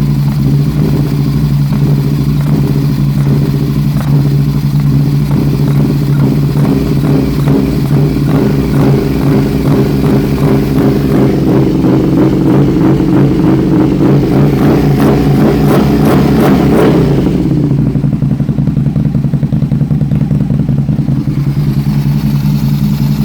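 2006 Aprilia RSV1000R's 60-degree V-twin engine running at idle with a rough, uneven note; about a third of the way in the revs are held up with a regular pulsing, then fall back to idle just past two thirds of the way through. The owner suspects a misfire, having seen a small spark at the front cylinder.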